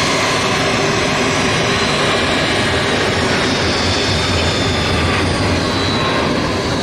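Military aircraft engines running loud and steady, with a dense rush and a high whine held over it, the whine sinking slightly in pitch near the end.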